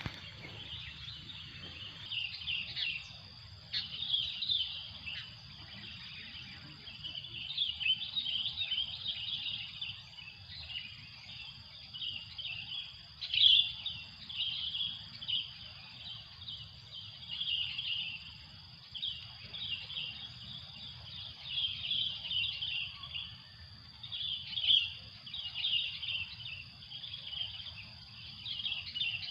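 Many small birds chattering in quick clusters of high chirps, with a steady high insect drone running underneath.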